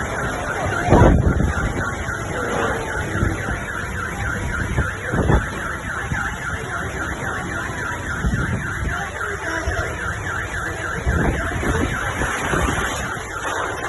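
A car alarm sounding a rapid, evenly repeating electronic chirp, over the steady hiss of heavy rain. Strong gusts of wind buffet the microphone several times.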